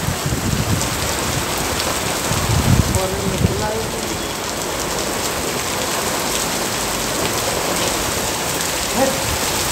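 Torrential rain pelting a waterlogged street and parked cars and motorcycles: a dense, steady hiss, with a few low rumbling gusts about three seconds in.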